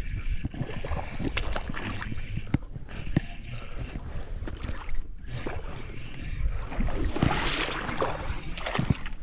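Water splashing and sloshing, with scattered clicks and knocks, as a hooked bass is fought on rod and line; a louder rush of splashing comes about seven seconds in.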